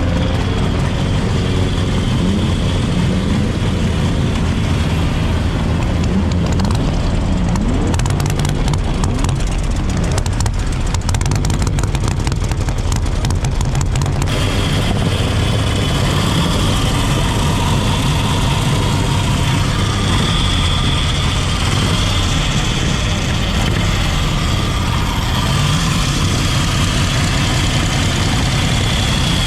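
Prewar car engines running, with a few short revs rising in pitch in the first several seconds, then a steady engine sound.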